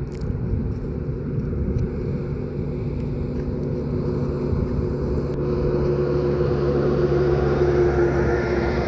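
Steady low rumble of a running motor vehicle with a few steady engine tones, growing a little louder in the second half.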